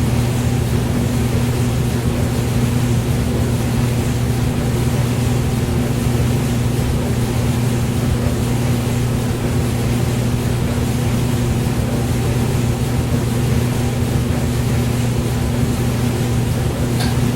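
Hair dryer running steadily: a constant low motor hum under an even rush of blown air, unchanging throughout.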